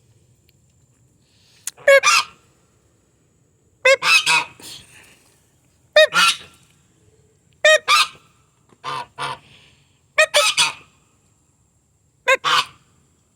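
Domestic gander honking loudly: seven harsh calls about one to two seconds apart, several of them quick double honks.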